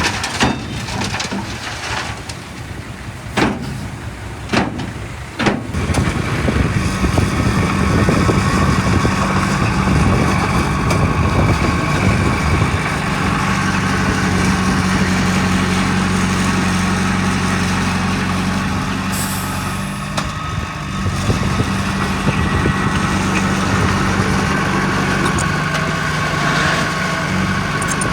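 Heavy diesel engine of earthmoving machinery running under load, with a few sharp knocks in the first seconds; the engine grows louder about six seconds in and eases off briefly about twenty seconds in.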